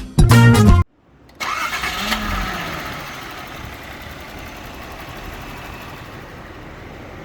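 Background music cuts off about a second in; then the 1983 Datsun 280ZX's inline-six starts, its revs flaring briefly as it catches, and settles into a steady idle.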